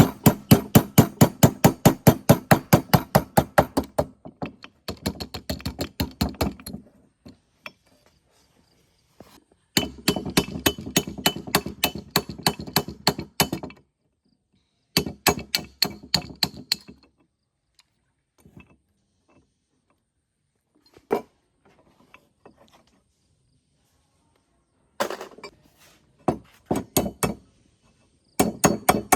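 Rapid runs of hammer strikes, about seven blows a second, each run lasting a few seconds with short pauses between, the longest pause about a third of the way through.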